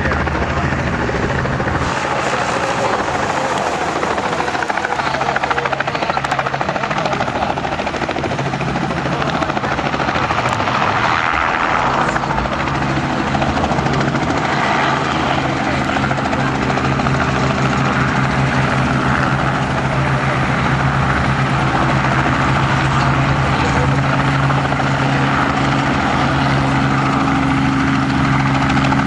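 Light aircraft engine and propeller running steadily in flight, a constant loud drone whose low engine tones hold steadier through the second half.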